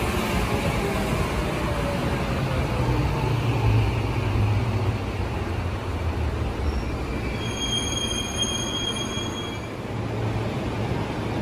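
Electric commuter train moving along the platform and slowing, with a steady low rumble and a motor whine falling in pitch. From about seven and a half seconds in there is a high squeal lasting about two seconds.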